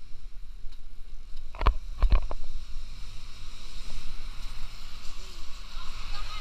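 Wind rumbling on the microphone and road noise from a ride on a bicycle, with two sharp knocks a little under two seconds in and a hiss that grows in the second half.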